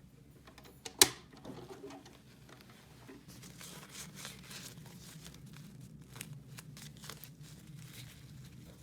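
A sharp plastic click about a second in, then plastic wrapping crinkling and rustling with small ticks as the toys are handled and unwrapped.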